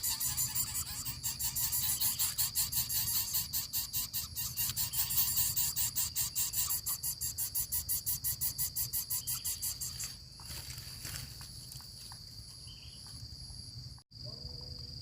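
Insects chirring outdoors: a fast, even pulsing of about eight or nine pulses a second that stops about ten seconds in, over a steady high-pitched insect whine. The sound cuts out for a moment near the end.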